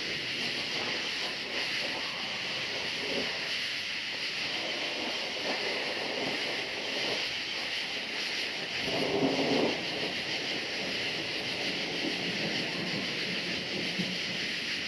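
A steady, high-pitched chorus of crickets under a low, uneven rumble of distant thunder that swells several times, loudest about nine seconds in.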